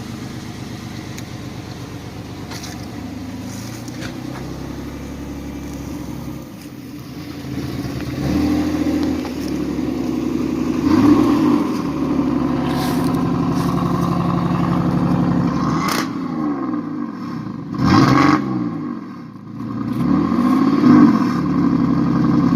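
Dodge Magnum's V6 engine running through a swapped-on Dodge Challenger exhaust. It holds steady for the first several seconds, then is revved up and back down several times, the revs peaking about halfway through and twice more near the end.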